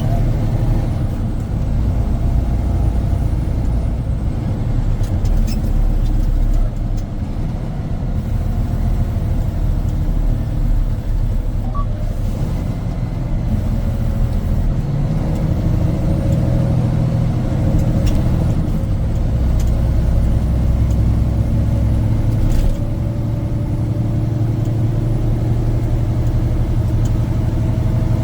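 Semi-truck engine and tyre noise while driving at highway speed: a steady low drone whose engine pitch shifts a little.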